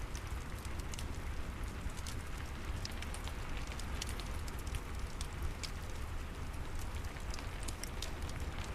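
Steady rain falling, mixed with a fireplace's wood fire crackling in small, frequent sharp pops over a low rumble.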